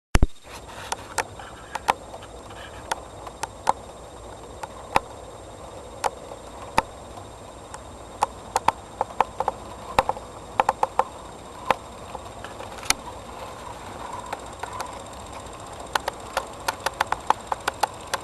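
Model train running on the layout: a steady whirring of motor and wheels on track, with many sharp clicks, irregular and sometimes in quick runs, as the wheels pass over rail joints.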